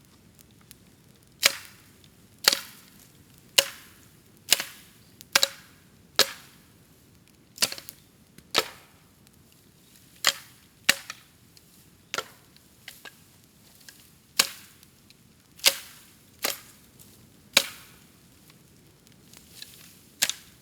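Bamboo burning in a bonfire, bursting with a string of sharp bangs and cracks, about one a second at irregular intervals, as the sealed hollow sections of the stems split in the heat.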